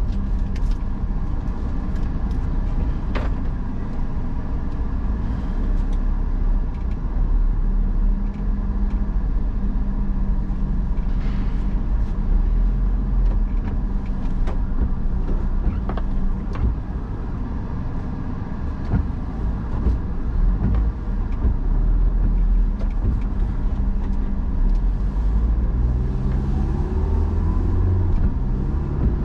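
A car being driven: steady engine and road rumble. The engine note rises in pitch near the end as it speeds up.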